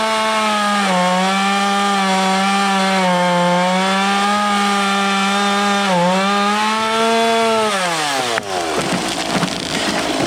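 Two-stroke chainsaw running at full throttle through a felling cut in a tree trunk, dipping briefly in pitch twice as the chain loads up. Near the end the engine revs drop away and rough crackling noise follows.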